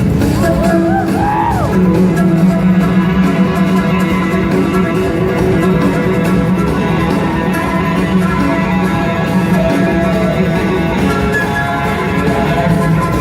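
Live rock band playing, electric guitar to the fore over a steady bass and drums, with notes bent or slid up and down about a second in.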